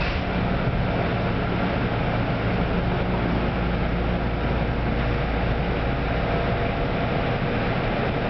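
Inside a Kintetsu 5200 series electric train car as it starts to pull away, its doors shut: a steady low rumble of the running gear and equipment, with a faint steady tone joining about halfway through.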